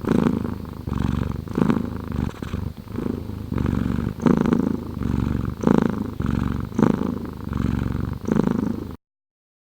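Domestic cat purring close up, a sound-effect recording: a low buzzing purr that swells and fades with each breath in cycles a little over a second apart. It cuts off abruptly near the end.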